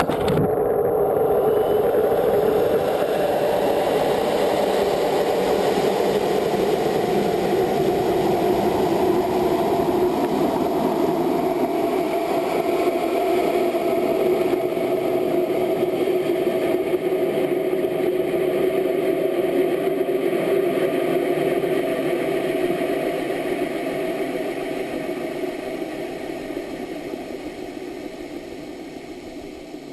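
A steady engine drone that starts suddenly and fades away over the last several seconds.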